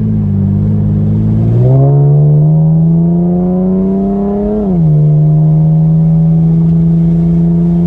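Car engine accelerating, its pitch rising for about three seconds, then dropping suddenly as the automatic transmission shifts up a gear, then running steadily.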